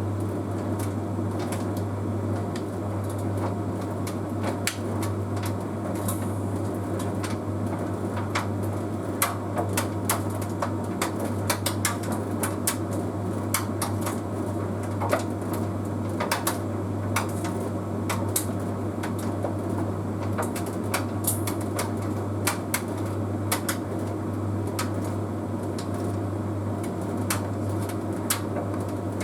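Bosch Series 6 heat pump tumble dryer running, its drum turning with a steady low hum and many small irregular clicks and taps from the tumbling load.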